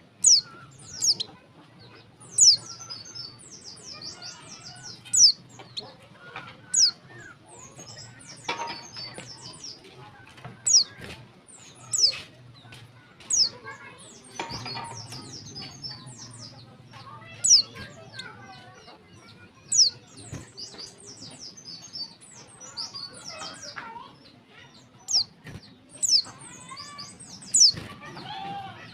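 Female white-eye (pleci) calling: sharp, high, downward-sweeping call notes repeated every one to two seconds, with softer twittering between them, the calls of a female used to stir males into song. A faint steady low hum lies underneath.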